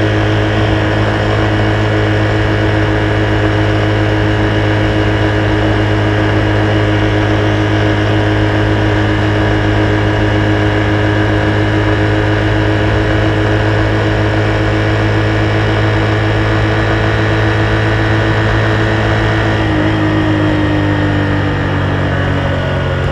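Honda Super Cub's single-cylinder four-stroke engine running at a steady cruising speed, its pitch holding constant. About three-quarters of the way through, the engine note starts falling steadily as the bike slows down.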